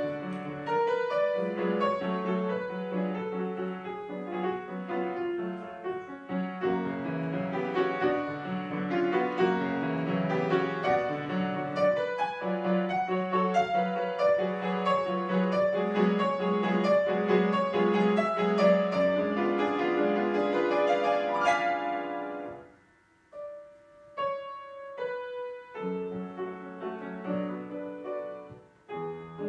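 Piano playing a classical piece in a flowing passage. About 23 seconds in it breaks off into a short hush, then a few soft, spaced chords lead back into the playing.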